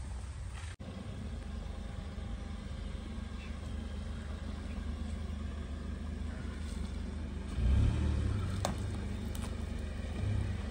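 Tata Punch's 1.2-litre three-cylinder petrol engine pulling at low speed as the car crawls over rocks on a rough dirt track, a steady low rumble that swells briefly about eight seconds in, followed by a single sharp click.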